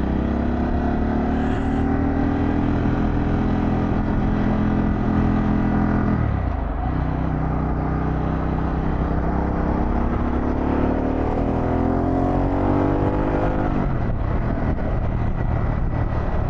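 Harley-Davidson Pan America Special's V-twin engine pulling under acceleration, its pitch climbing, then dropping sharply at an upshift about six seconds in and again near the end, with wind rush over the helmet mic.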